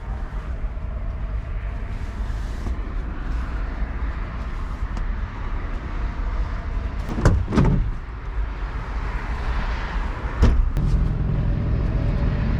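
Vehicle sounds: a steady low rumble with a couple of sharp knocks about seven seconds in and another about ten seconds in, after which a steady hum sets in.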